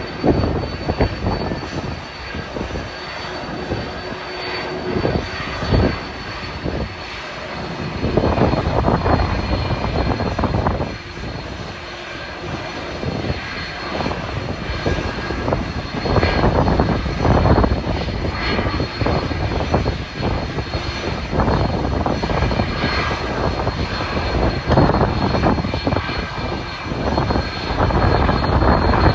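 Airliner jet engines running with a steady high whine, buried under heavy wind buffeting on the microphone that comes in uneven gusts and grows louder about a third of the way in.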